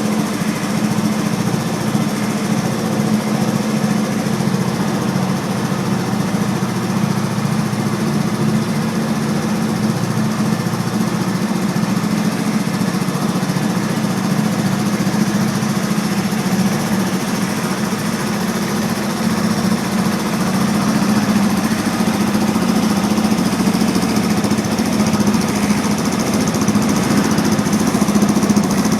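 350 cc quad ATV engine running steadily through an aftermarket exhaust, a low, even exhaust note that gets a little louder about twenty seconds in.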